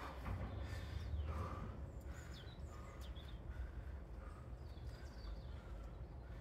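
A few quick bird chirps, mostly about two to three seconds in, over a low steady rumble of outdoor background noise.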